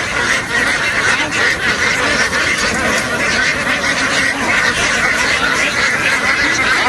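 A large flock of domestic ducks quacking all at once, a loud, dense and unbroken chorus of overlapping calls.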